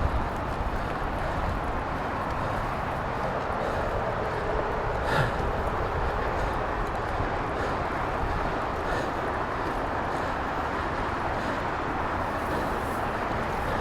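Steady rushing noise of riding an e-mountain bike on a dirt trail, tyres and wind on the camera, mixed with the roar of I-5 freeway traffic, with a sharp knock from the bike about five seconds in.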